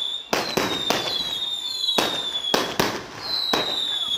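Aerial fireworks display: a rapid string of sharp bangs from bursting shells, about seven in four seconds, over long high whistles that each slide slightly lower in pitch.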